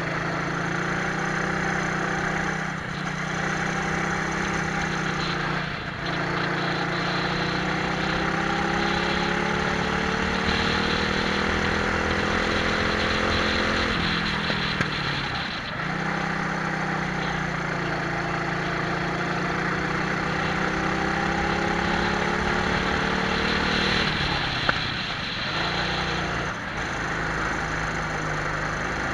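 Twin-engine Prokart's engines pulling hard, their pitch climbing steadily, then falling sharply three times as the throttle is lifted for corners. Heavy wind rush over the onboard microphone runs under it.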